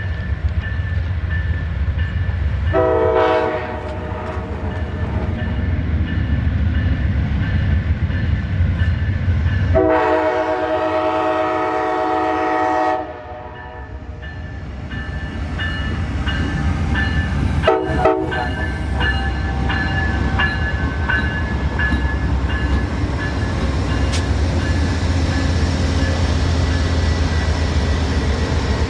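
Amtrak Crescent passenger train's diesel locomotive rumbling into the station. Its horn sounds three times: a short blast, a long blast of about three seconds, then a brief toot.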